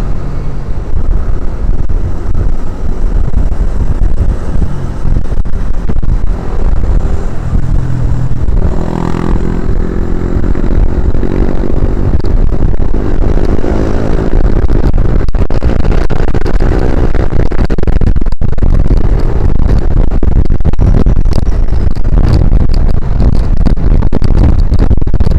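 Motorcycle riding at speed, heard through a sports camera's microphone as a loud, steady low rumble with the engine running under it. About nine seconds in, the engine's pitch rises for several seconds as it accelerates.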